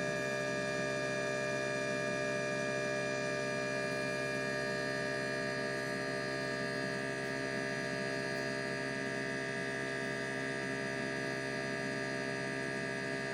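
ASNU injector test bench pump running at a steady, even hum, holding the raised pressure of a leak test on the injectors.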